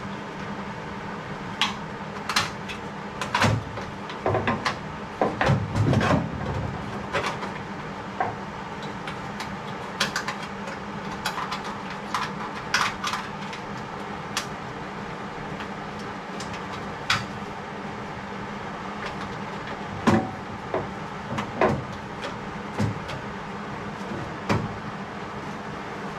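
Irregular clinks and knocks of metal tools and sheet-metal parts being handled, with a cluster about four to six seconds in and another about twenty seconds in, over a steady shop hum.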